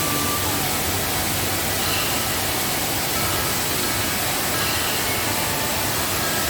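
Waterfall in heavy rainy-season flow: a steady, loud, even rush of falling water.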